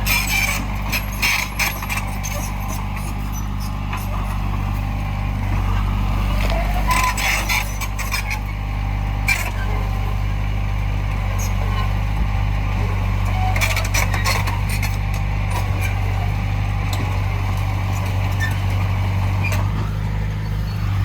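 Heavy diesel earthmoving machinery running steadily, with scattered metallic clanks and knocks.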